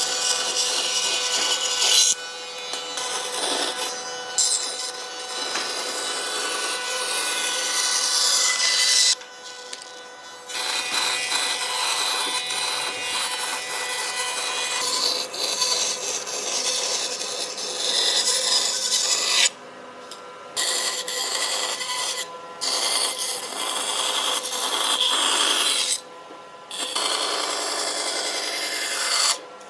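A power tool abrading wood: a rough, scraping rasp over a steady motor hum. It stops abruptly several times and starts again a moment later.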